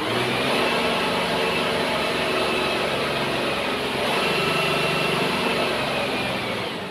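Motor grader's diesel engine running steadily at idle, with a high whine over it.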